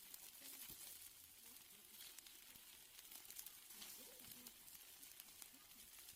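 Steaks sizzling faintly on a grill: a steady hiss with scattered small pops.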